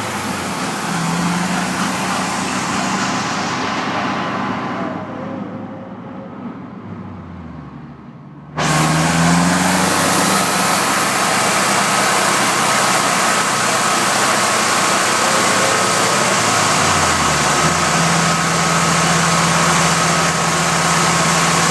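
Mazdaspeed3's turbocharged 2.3-litre four-cylinder engine running on a chassis dynamometer. The sound sinks for a few seconds, then a loud, steady rushing noise cuts in suddenly about a third of the way in and runs on over the engine.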